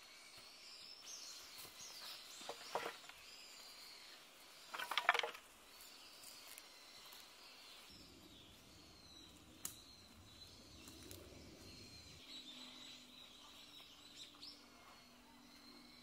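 Wild birds chirping and calling in woodland, thin high calls throughout with two louder short bursts about three and five seconds in. A faint low hum joins about halfway.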